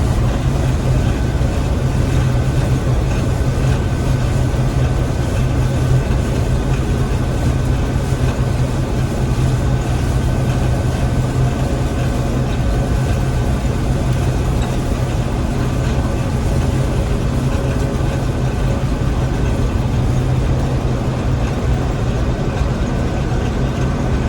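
Gleaner M3 combine running steadily: an even, low engine drone with a thin steady whine above it, unchanging throughout.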